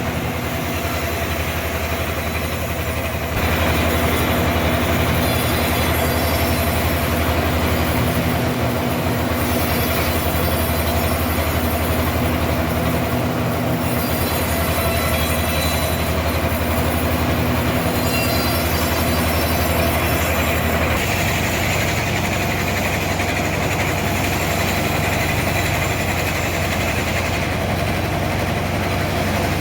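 Sawmill machinery running with a steady, even drone. It gets louder about three seconds in and changes note slightly again about twenty seconds in.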